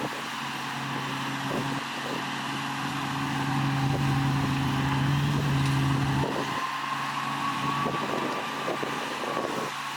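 Heavy construction machine's diesel engine running, pulling harder with a stronger hum from about two seconds in, then easing off about six seconds in. After that a faint whine rises and falls.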